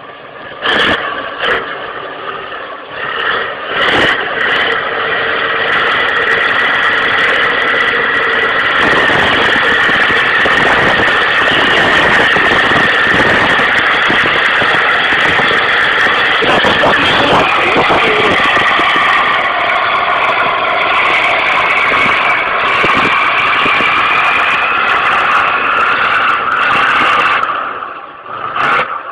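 A motor vehicle running, with loud road and engine noise and a steady high tone over it, dropping away suddenly near the end.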